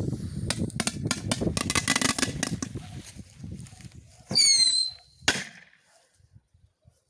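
Two Korsar firecrackers go off inside a vacuum cleaner. First comes a dense run of rapid crackling, then a short high squeal whose pitch drops and levels off, then one sharp bang a little after five seconds.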